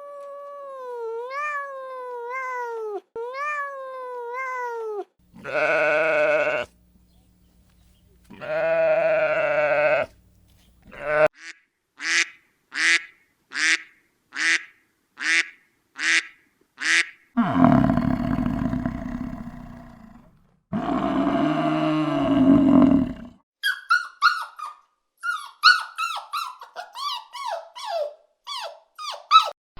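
A string of different farm animal calls, one kind after another. First come a few pitched calls, then two long calls. Next are about nine short calls evenly spaced at a bit more than one a second, then two long low calls, and near the end a rapid run of high chirps.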